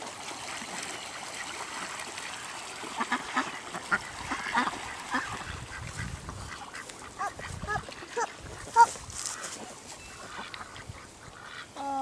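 A group of ducks calling in a flurry of short calls, busiest from about three to nine seconds in, while they are being fed.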